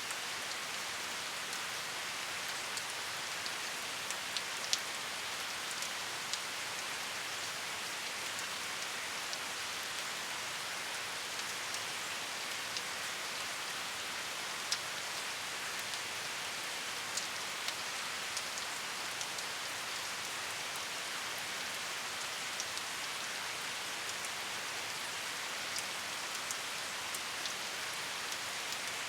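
Steady rain falling: an even hiss of rain with scattered sharper ticks of single drops.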